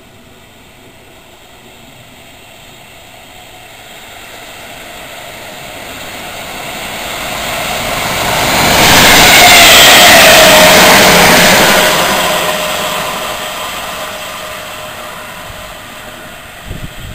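First Capital Connect electric multiple unit passing at speed: a rush of wheel and air noise that builds as it approaches, is loudest about ten seconds in, then fades as it goes away, with a motor whine that drops in pitch as it passes.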